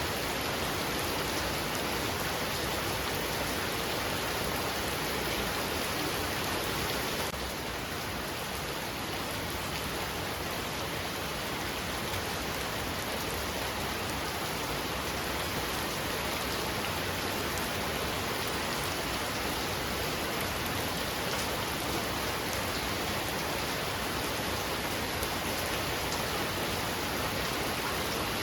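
Heavy rain falling steadily as a dense, even hiss of drops, dipping slightly in level about seven seconds in.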